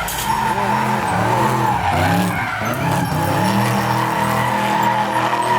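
A drift car sliding with its tyres squealing steadily, while the engine revs rise and fall over and over as the throttle is worked.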